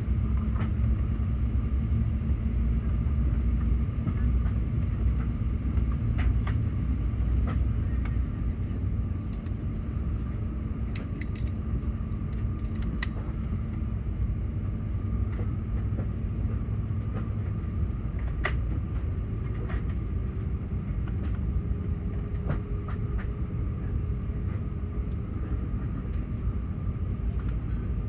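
Low, steady cabin rumble inside an Airbus A380 during pushback, with scattered faint clicks and knocks. A steady hum fades out about two-thirds of the way through, and a fainter, higher hum comes in.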